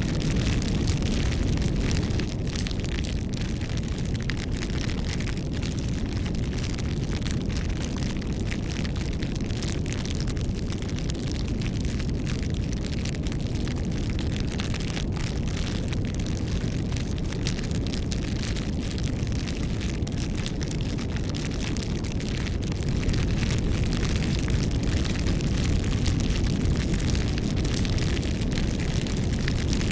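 Bonfire burning: a steady low rumble of flames with frequent small crackles and pops from the burning wood.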